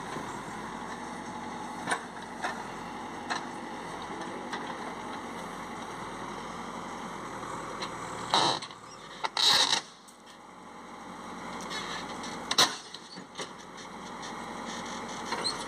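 Diesel engine of heavy machinery, a JCB backhoe and tractor, running steadily while freeing a stuck load of morum, with a few loud bangs and clanks about eight and a half, nine and a half and twelve and a half seconds in.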